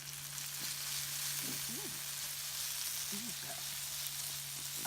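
Eggplant pieces frying in a pan over a campfire, crisping, with a steady sizzling hiss. A constant low hum runs underneath.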